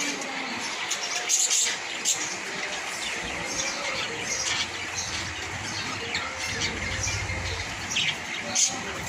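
Budgerigars chirping and chattering with short, high squawks in a busy stream of calls. A low hum runs underneath from about halfway through.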